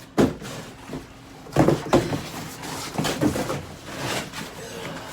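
A run of irregular knocks, bangs and clatter, as of things being handled and moved about, with a sharp knock at the start and two loud bangs about a second and a half in.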